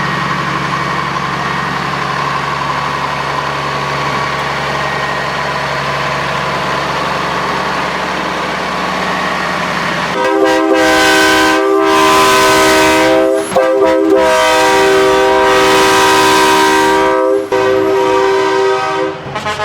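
Diesel semi truck running steadily. About halfway through, its air horn sounds a loud multi-note chord like a train horn, held for several seconds with a few brief breaks.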